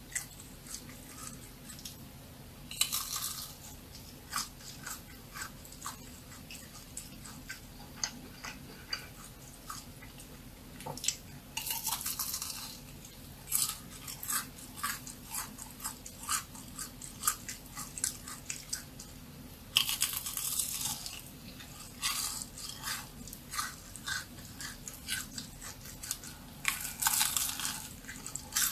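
Close-miked chewing of crisp churros: steady wet mouth clicks and crunches, broken by a few louder crunching bursts spaced through.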